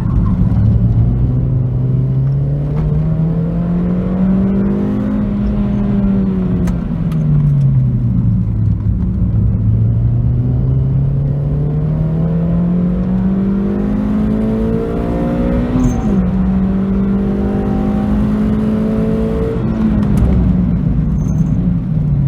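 Suzuki Swift Sport's M16A 1.6-litre inline-four running through an R's E-202 sport muffler under circuit driving. The engine note rises steadily under acceleration for about five seconds, then falls off. It climbs again, drops suddenly on a gear change about sixteen seconds in, holds, and falls away near the end.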